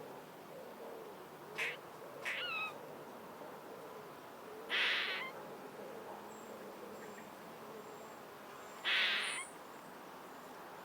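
Bird calls: two short calls about two seconds in, then two louder, harsh half-second calls about four seconds apart, over a faint steady outdoor background.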